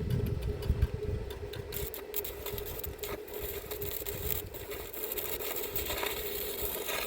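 Electric arc welding on an iron gate: a steady hum underneath and, from about two seconds in, the dense crackling of the welding arc.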